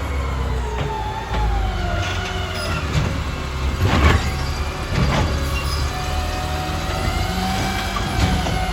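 Garbage truck running: a steady low engine rumble with a whine over it that falls in pitch and then holds steady, and sharp knocks about four and five seconds in.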